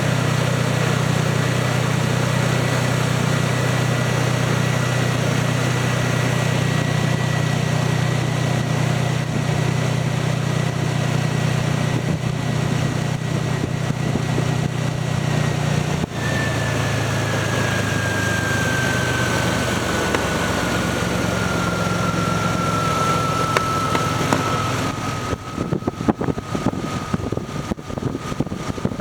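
2004 Mercury Mountaineer's 4.0-litre V6 running steadily, with a thin high whine over it. About halfway through, the engine note and the whine drop in pitch, and the whine keeps sliding slowly lower for several seconds; near the end the sound turns uneven and clicky.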